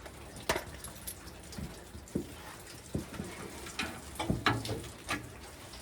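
Scattered clicks and knocks, about eight in all and irregularly spaced, from hand tools and gooseneck hitch hardware being handled during the installation.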